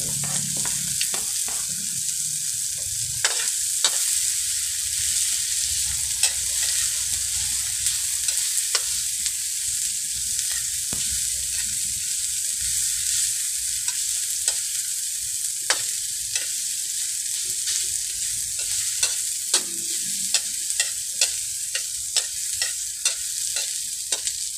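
Onion, tomato and ginger sautéing in hot oil in a wok: a steady sizzle, with a metal ladle scraping and clinking against the wok as it stirs, the clinks coming more often near the end.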